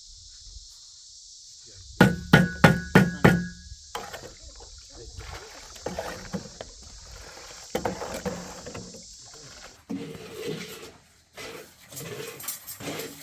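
Five quick, sharp knocks with a short ringing tone, about two seconds in, then irregular knocking and clatter, over a steady high hiss that stops near the end.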